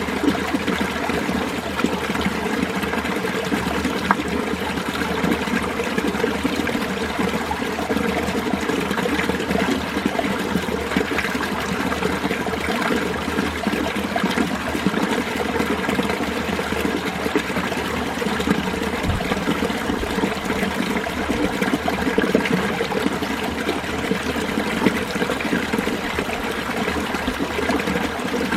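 Mountain stream in winter, clear water running and trickling over rocks steadily without a break.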